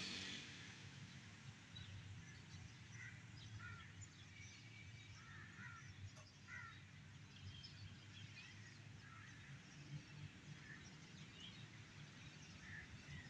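Faint, scattered bird chirps over a low, steady rumble.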